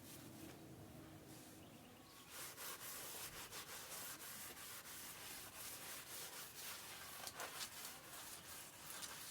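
Faint, repeated scratchy rubbing strokes that start about two seconds in.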